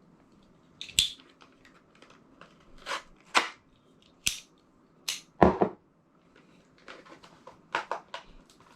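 Packaging and small hardware being handled: a string of sharp, irregular clicks and knocks with short rustles of wrapping.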